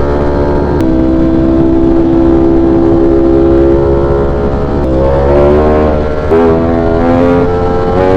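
V4 sport motorcycle engine under way, holding a steady note, then about five seconds in opening up. The pitch climbs and drops back at each quick upshift, several times near the end.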